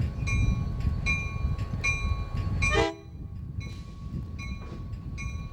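Railroad crossing warning bell ringing in even, repeated strikes while a train rumbles past. The low rumble of the train drops off suddenly about three seconds in, and the bell keeps ringing more faintly.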